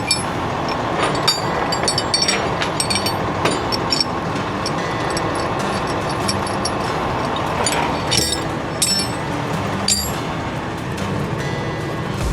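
Boom truck engine running steadily, with scattered metallic clicks and knocks through it.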